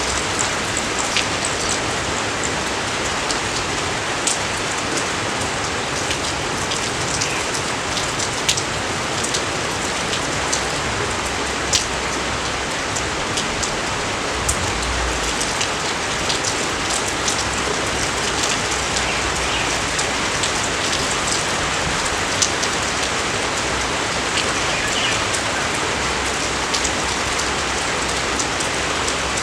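Steady rain falling, with the sharp ticks of individual drops landing throughout.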